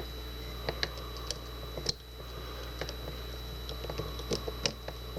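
Small, irregular metallic clicks and ticks of a short hook pick working the pins of a Kwikset deadbolt's lock cylinder under light tension during single-pin picking, over a steady low hum.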